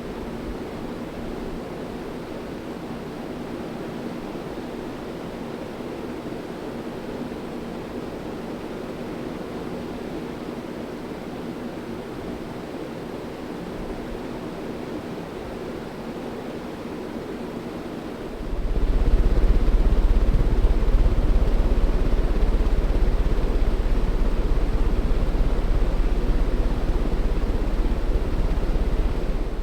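Hunter Greenwich 52-inch ceiling fan running steadily, with a whoosh of moving air over a faint motor hum. About eighteen seconds in, a deep low rumble comes in, much louder, and holds to the end.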